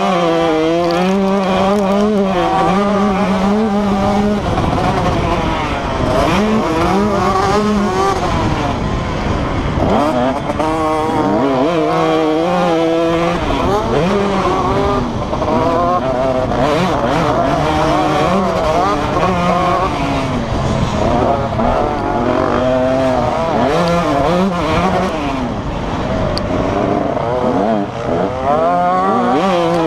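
Motocross bike engines revving up and down continuously, the pitch climbing and dropping again and again as the bikes accelerate and shift.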